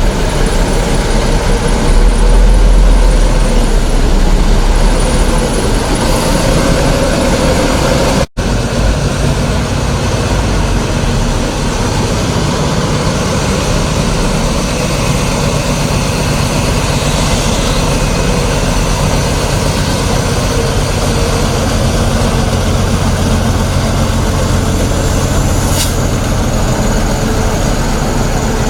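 Heavy trucks running: a loud, steady engine and road rumble that cuts out for an instant about eight seconds in.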